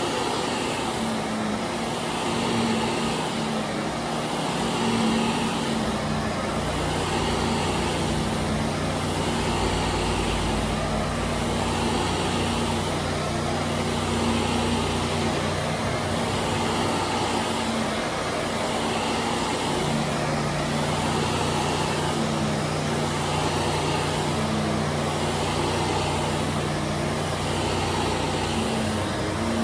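Vacuum cleaner running on carpet, its hiss swelling and fading in even strokes a little over a second apart as it is pushed back and forth. A power washer runs steadily underneath, its lower hum cutting in and out.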